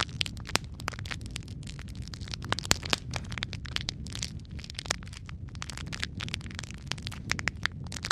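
Wood fire crackling in a fireplace: a steady low rumble of flames with a dense run of sharp pops and snaps, one of them louder about two and a half seconds in.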